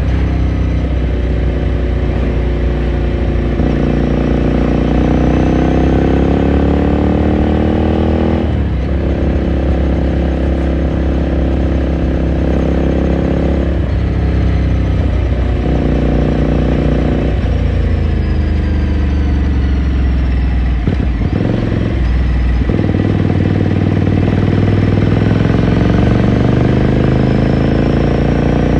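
2018 Ducati Scrambler Sixty2's air-cooled 399 cc L-twin engine under way, pulling through the gears. The engine's pitch climbs steadily in each gear and drops at each change, about five times, with a longer lift-off of the throttle a little after two-thirds of the way through.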